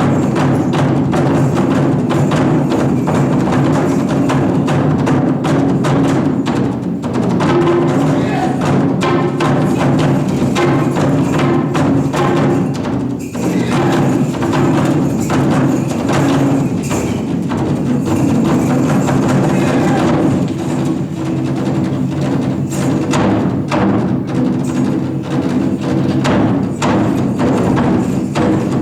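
Japanese taiko drum ensemble playing live: a dense, unbroken run of drum strikes over held lower tones.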